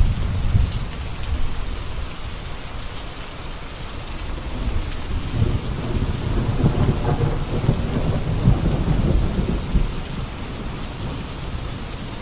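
Steady rain falling, with rolling thunder: a rumble fading just after the start, then a longer, louder roll building from about five seconds in and dying away near ten seconds.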